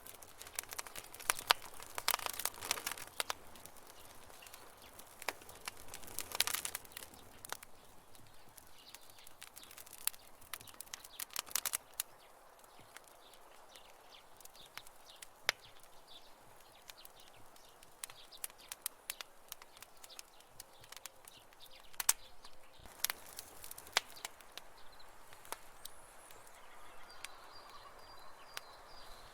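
Campfire burning with irregular crackles and sharp pops, coming in flurries over a soft steady hiss.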